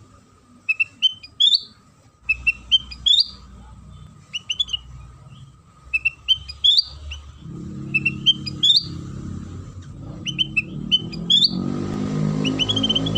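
Kutilang sutra song: short phrases of a few quick, rising chirped notes, repeated about once a second. A low hum comes in behind it about halfway through and grows louder, with a hiss joining it near the end.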